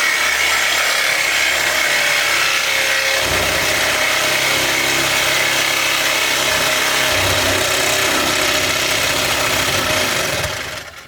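Corded power tool cutting through a steel exhaust pipe, loud and steady, starting abruptly and winding down near the end.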